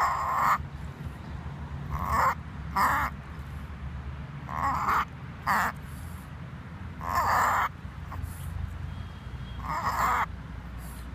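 Tibetan Spaniel reverse sneezing: a series of harsh, forceful inhalations through the nose, about seven short bursts, some in quick pairs a fraction of a second apart, others a couple of seconds apart.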